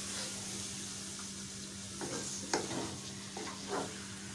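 Chicken leg pieces in masala sizzling in a nonstick pot while a plastic spoon stirs them, with a few short scrapes of the spoon in the second half.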